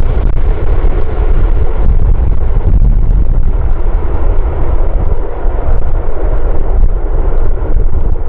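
Strong wind buffeting the microphone: a loud, ragged low rumble over a steady rushing noise.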